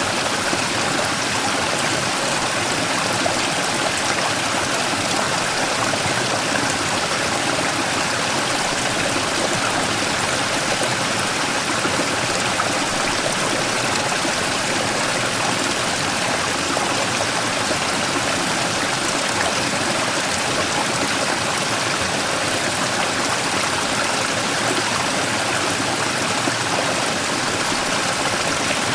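Mountain stream rushing and splashing over a large rock, a steady, even water sound.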